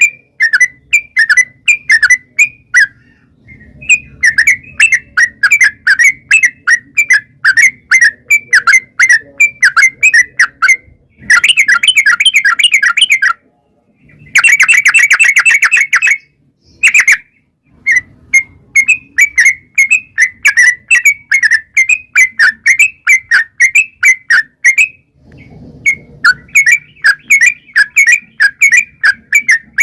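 Yellow-vented bulbul (trucukan) singing a long run of quick, repeated chirping notes with short pauses. Twice, about 11 and 14 seconds in, it breaks into a much faster, denser rapid-fire trill.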